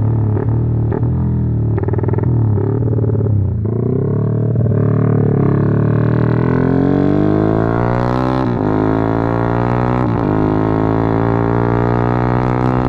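Motorcycle with a Norifumi aftermarket exhaust being ridden and accelerated. The exhaust note climbs in pitch for several seconds, drops sharply at gear changes about eight and a half and ten seconds in, then climbs again.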